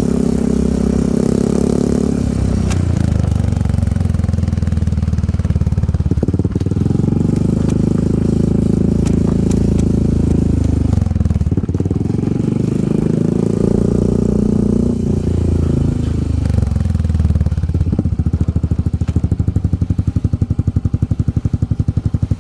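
Yamaha Grand Filano scooter's single-cylinder engine running through an aftermarket TZM-copy exhaust, its revs dropping and rising again a few times before it settles to an even idle near the end.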